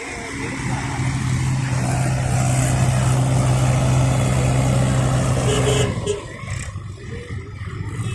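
Tractor diesel engine running hard at a steady pitch, louder from about a second in, then dropping away abruptly about six seconds in.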